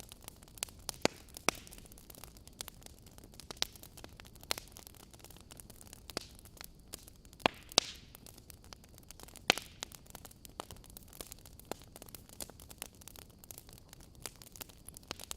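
Wood fire crackling in a fireplace: irregular sharp pops and snaps over a soft steady hiss, with the loudest pops about a second in and around the middle.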